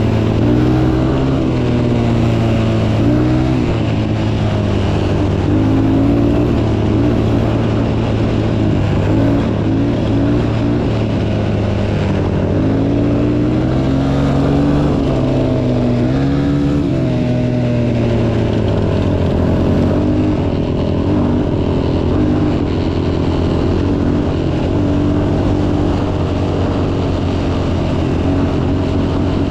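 Motocross bike engine running while being ridden, its pitch rising and falling as the throttle is opened and closed, with the biggest swings a little past the middle.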